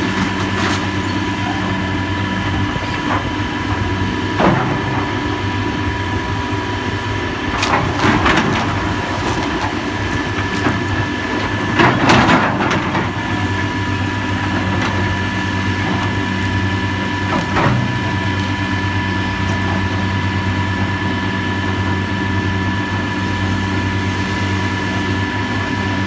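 Heavy demolition machinery running steadily, with four crunching, cracking impacts of breaking material. The loudest impact comes about twelve seconds in.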